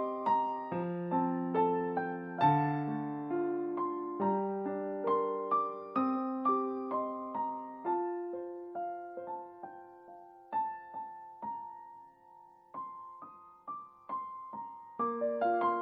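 Background music: a solo piano piece, its notes struck and decaying, quieter and sparser for a while in the middle before fuller chords come back near the end.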